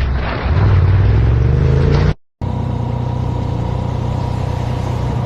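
Car engine accelerating, its pitch rising, until it cuts off abruptly about two seconds in. After a brief silence comes the steady drone of a vehicle driving, with a faint, even whine.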